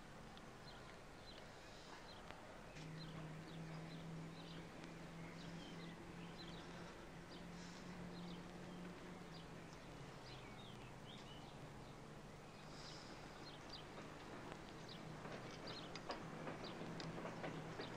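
Birds chirping in the background, many short high calls scattered throughout, over faint outdoor noise. A low steady hum sits underneath from about three seconds in until about ten seconds.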